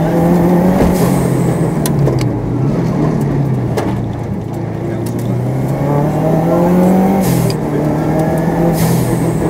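Subaru Impreza WRX STi's turbocharged EJ25 flat-four, heard from inside the cabin, pulling hard and lifting between corners, its pitch rising and falling. A long climb in pitch ends abruptly about seven seconds in, and a few sharp cracks come about two and four seconds in.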